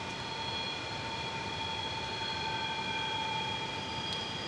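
Train heard but not seen: several steady, high-pitched whining tones over a steady rushing noise, with fainter tones joining partway through.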